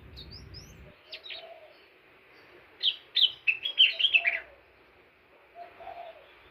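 Indigo flycatcher (sikatan ninon) singing: short high chirps, then a fast, loud jumble of notes about three seconds in.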